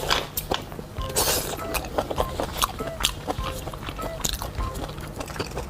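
Close-miked chewing and biting of fatty meat: a series of irregular wet clicks and crunches, several a second, with light background music.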